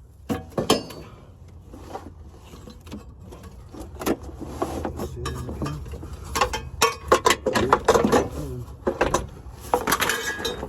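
Metal hand tools clinking and clicking against metal parts in quick, irregular taps and knocks while a transmission is being unbolted.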